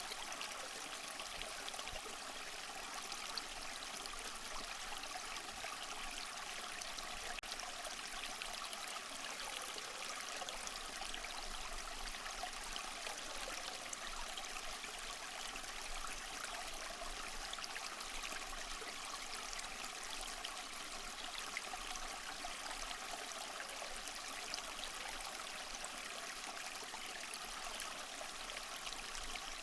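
Small waterfall trickling and splashing steadily over mossy rocks, with no change throughout.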